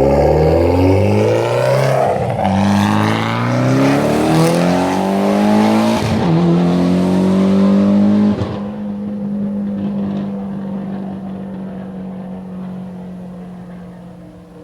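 Mitsubishi Lancer Evolution X's turbocharged four-cylinder running at wide-open throttle through an open-dump downpipe and straight exhaust, pitch climbing in each gear with breaks for shifts about two, six and eight seconds in. After the last shift it settles into a steady drone that fades away as the car pulls off.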